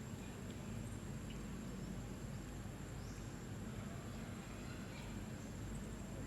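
Steady low outdoor background noise with a faint, thin, high steady whine and a few small clicks.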